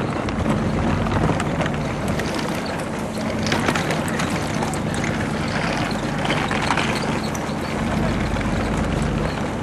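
Boat engine running steadily, with a constant low hum under a wash of water and wind noise.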